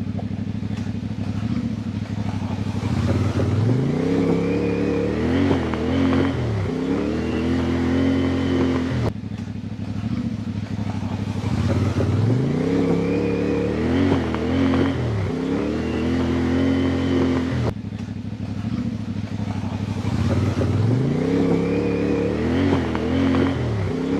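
CFMOTO Ibex 450 parallel-twin motorcycle engine running low, then revving up with a rising note, dipping briefly and pulling steadily, as the bike is ridden through a creek crossing. The same passage is heard three times in a row, each cut off suddenly, about nine and eighteen seconds in.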